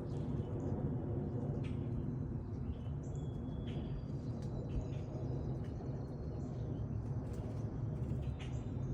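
Small birds chirping, with scattered short calls and a few brief whistled notes over a steady low background rumble.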